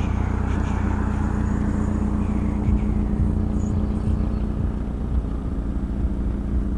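Car engine idling steadily: an even low hum.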